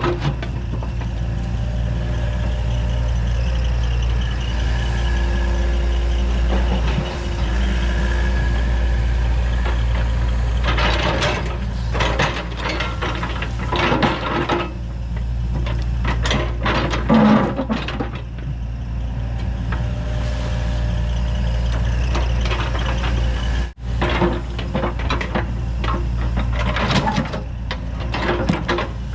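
Compact excavator's diesel engine running steadily under hydraulic work, with clusters of knocks and clatter from the bucket handling limestone rocks a few times.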